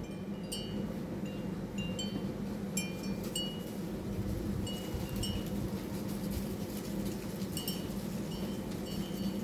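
Wind chimes ringing irregularly: scattered clear high notes, some ringing on briefly, over a steady low hum.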